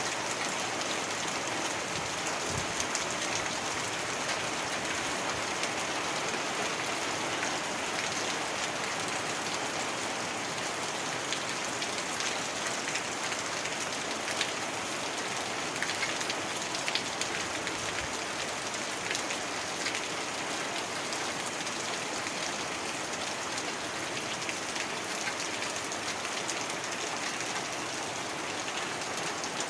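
Heavy rain falling steadily, a dense even hiss with a few sharper drop ticks scattered through it.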